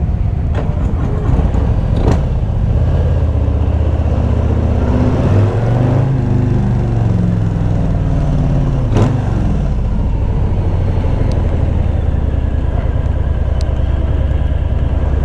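Harley-Davidson Low Rider S V-twin with Screamin' Eagle slip-on mufflers running on the move, its pitch rising and falling through the middle as the throttle is worked. Two short sharp clicks about two seconds and nine seconds in.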